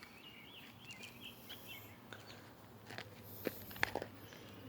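Quiet outdoor ambience: a small bird chirps faintly through the first couple of seconds, then a few light clicks and taps in the second half.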